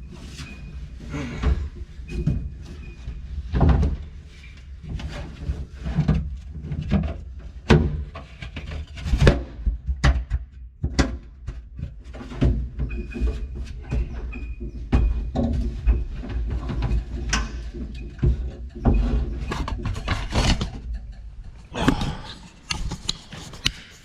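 Irregular knocks, clunks and handling noises of hands-on work in an aluminum boat, over a steady low rumble.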